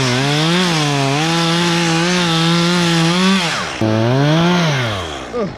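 Chainsaw running at high revs while cutting wood, its pitch dipping a little under load. Near four seconds in it sags and stops, then revs up again briefly and falls away near the end.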